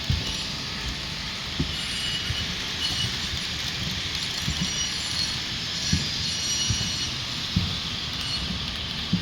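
HO-scale Rapido model BART train running along the layout track: a steady high whirr from the running train, with irregular soft low clicks and thumps every half second to a second.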